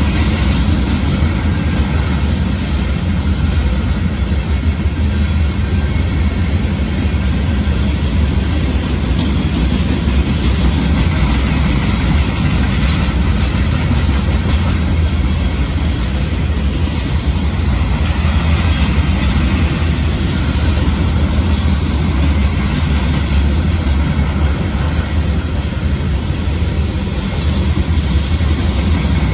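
Freight train of covered hopper cars rolling steadily past: a continuous, even rumble and rattle of wheels on rail.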